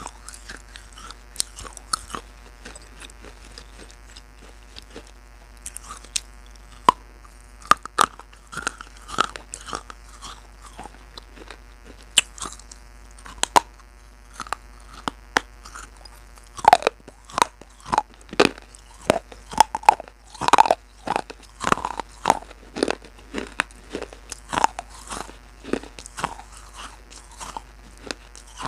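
Irregular crunching and clicking, a few at a time at first and then much busier over the second half.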